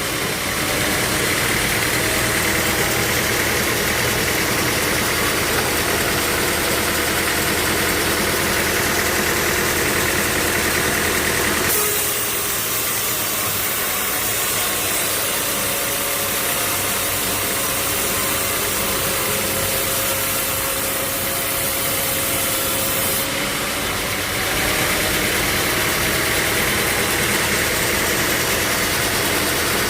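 Heavy sawmill machinery with an engine running steadily, with abrupt shifts in the sound about 12 and 23 seconds in.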